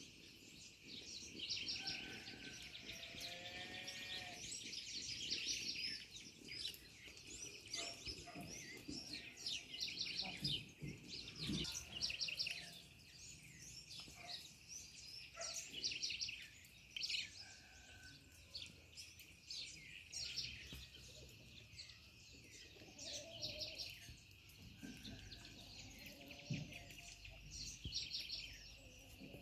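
Several birds chirping and singing in repeated short runs of quick high notes, over a steady high-pitched background drone.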